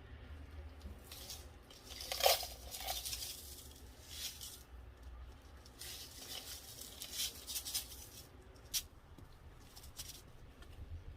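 Irregular rustling and crinkling from material being handled, with the loudest bursts about two seconds in and again around six to eight seconds, over a low steady hum.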